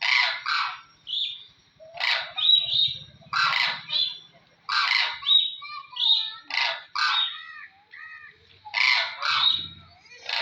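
Cranes calling: a run of harsh, loud squawking calls, a dozen or more in quick succession and often in pairs, with short high piping notes between them.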